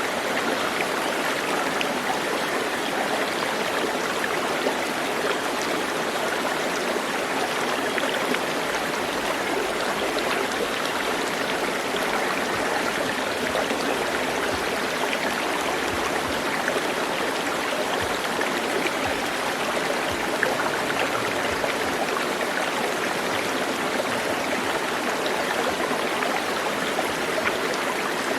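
Steady rush of running water from a stream, with small splashes throughout.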